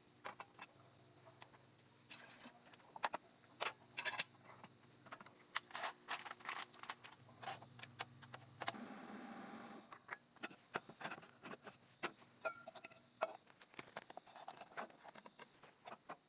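A string of irregular sharp clicks and light knocks, as of small objects being handled, with a hiss lasting about a second roughly nine seconds in.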